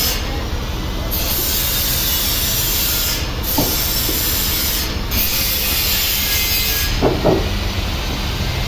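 Sawmill machinery cutting through a large log, a loud steady rushing noise of saw and wood. There are a couple of brief squeaks about seven seconds in.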